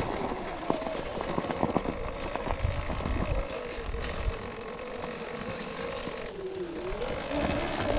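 Sur-Ron Ultra Bee electric dirt bike's motor whining as it rides, the whine rising and falling with the throttle and dipping lower about six and a half seconds in before climbing back, over the rattle and knocks of the bike on rough trail.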